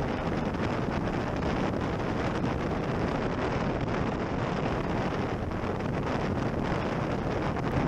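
Steady wind rushing over the microphone of a camera on a moving motorcycle, with road and vehicle noise underneath.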